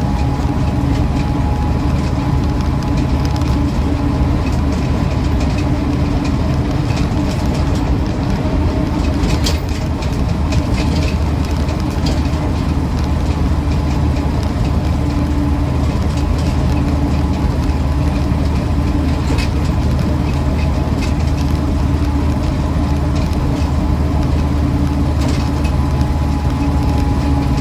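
The 2.25-litre four-cylinder petrol engine of a 1966 Land Rover Series IIa 88-inch running steadily under way, with drivetrain and road noise.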